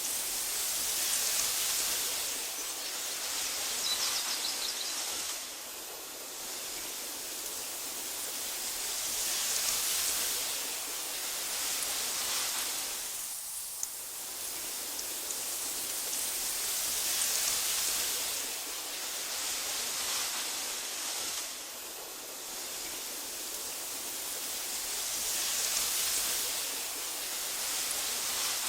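Wind hissing through tall meadow grass, swelling and easing in slow gusts every several seconds.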